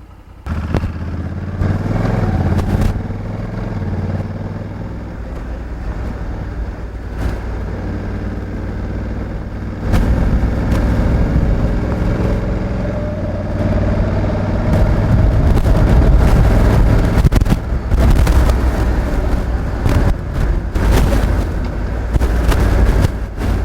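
Honda Africa Twin 1100's parallel-twin engine running under way. It comes in suddenly about half a second in, then climbs in pitch as the bike accelerates in the middle, with gusts of wind noise across it.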